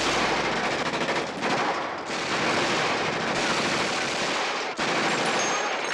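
Rapid automatic gunfire, a dense rattle of shots with no pause, breaking off and resuming abruptly a few times.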